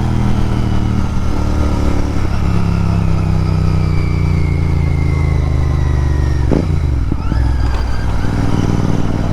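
Royal Enfield Continental GT 650's parallel-twin engine running through Red Rooster aftermarket exhausts while riding. Its pitch slowly falls, breaks about six and a half seconds in, then climbs again.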